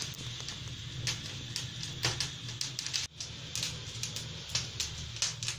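Wood fire crackling in a suspended fireplace, with irregular sharp pops over a steady low hum.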